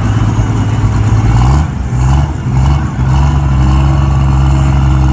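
Heavy pulling-vehicle engine running loud under load, its pitch stepping down about a second and a half in, wavering briefly, then holding steady.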